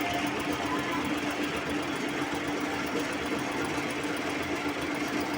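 Sewing machine running steadily at speed, stitching fabric, with an even motor hum under the rapid needle noise.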